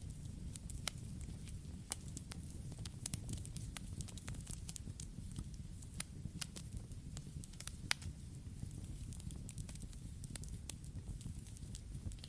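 Campfire burning with a steady low rumble of flames and irregular sharp crackles and pops from the burning wood, several a second.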